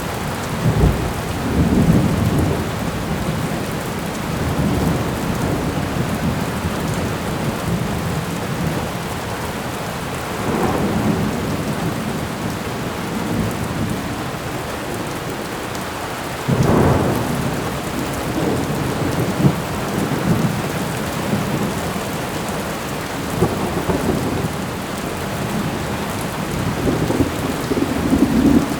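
Thunderstorm ambience: steady heavy rain with several rolls of rumbling thunder, one starting more sharply a little past halfway through.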